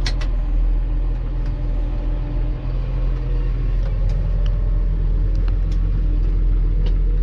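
Tractor engine running steadily while driving, a low drone with a few light clicks and rattles over it.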